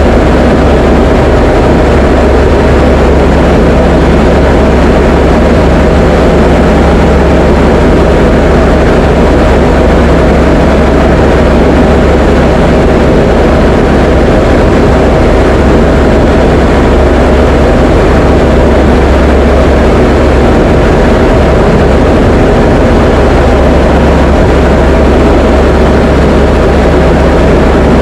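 Diamond DA20 light aircraft's piston engine and propeller droning steadily in flight, with no change in power.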